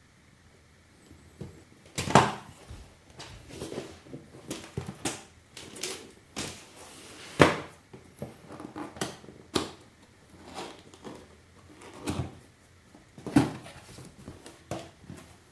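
Cardboard box and packaging being handled and opened: irregular knocks, taps and clicks with rustling and scraping between them, the sharpest knocks about two seconds in and near the middle.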